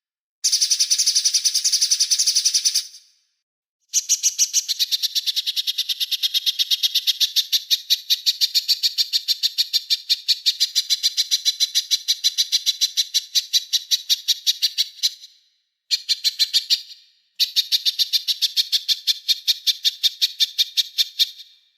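Small songbird singing rapid trills: fast, evenly repeated high notes in four phrases, one long one of about eleven seconds, broken by short pauses.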